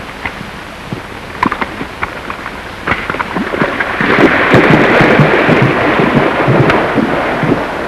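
Horse hoofbeats on an old film soundtrack: scattered hoof knocks, then a louder, thicker rush of galloping hooves from about four seconds in.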